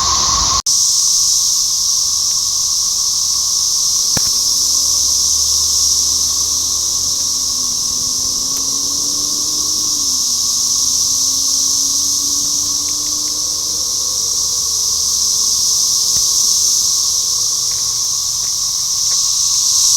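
Dense chorus of 13-year periodical cicadas: a loud, steady, unbroken high whine with a lower hum beneath it, which the narrator likens to a spaceship sound.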